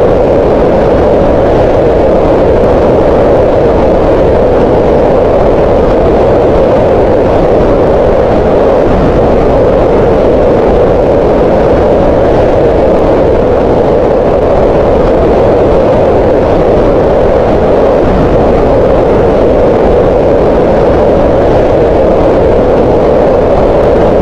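Green noise: a loud, steady, unchanging hiss centred on the middle of the range, with less deep rumble and less high hiss.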